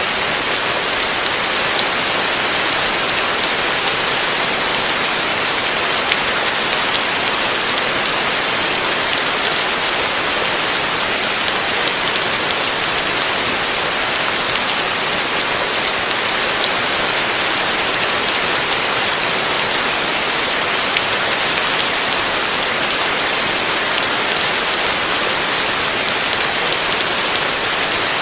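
Heavy rain falling steadily on a roof, a dense, even patter with no breaks or thunder.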